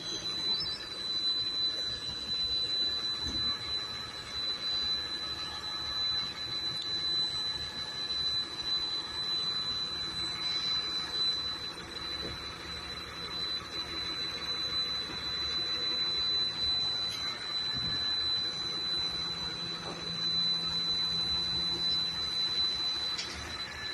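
Garbage truck running, with a steady high-pitched whine over the engine noise.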